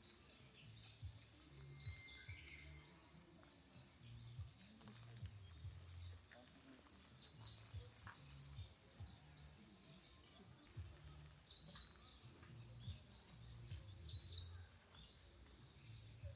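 Faint songbird singing: a short, high chirping phrase repeated every few seconds, over irregular low rumbling noise.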